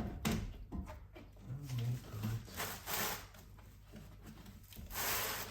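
Short knocks, clicks and scraping as the front suspension parts (coil spring, spring top hat, rubber isolator) are handled and seated, in a few separate bursts.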